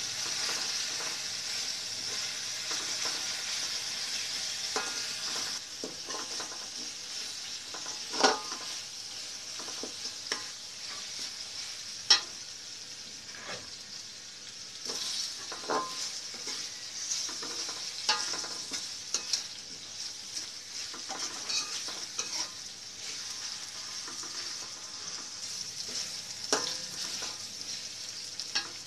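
Ground spice paste sizzling in oil in a wok while a spatula stirs and scrapes it, with sharp taps of the spatula against the pan every few seconds; the loudest taps come about eight and twelve seconds in. This is the sauté stage, frying the paste until wilted and fragrant.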